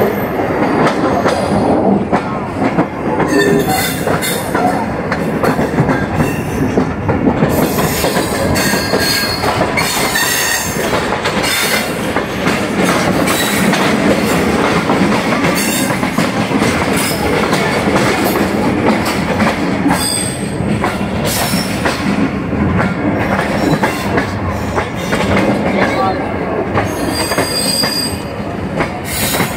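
Tezgam passenger train running on the track: a steady loud rumble and clatter of wheels over rails, with high-pitched wheel squeal coming and going several times.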